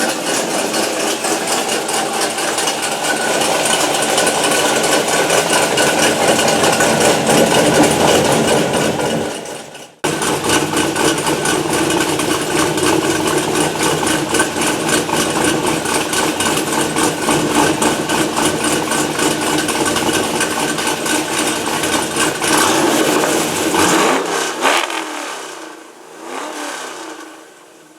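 Chevrolet Camaro (fifth generation) engine running, with the dense engine sound broken off abruptly about ten seconds in and then resuming. It fades away over the last few seconds.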